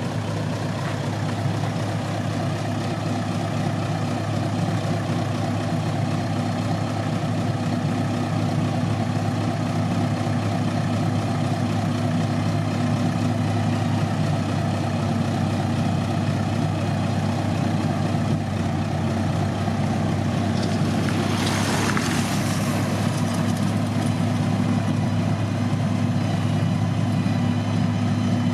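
Heavy diesel engine of road-construction machinery running steadily with a deep, even hum. About two-thirds of the way through there is a brief hiss.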